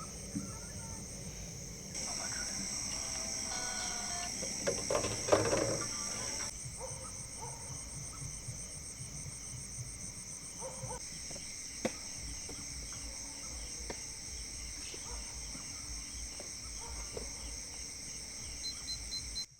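Night chorus of crickets and other insects: a steady high-pitched trill, with a rhythmic chirping in the middle part. A short louder sound stands out about five seconds in.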